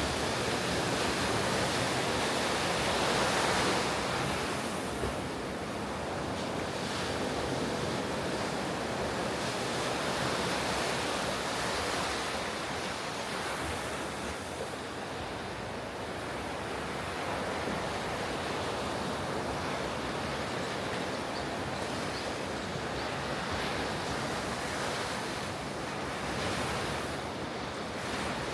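Ocean surf breaking and washing on a beach, a steady rush that swells about three seconds in and eases again, with some wind on the microphone.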